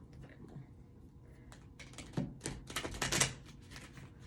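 A deck of tarot cards being shuffled: a rapid flurry of cards clicking and flicking against each other, starting about a second and a half in and densest around three seconds in.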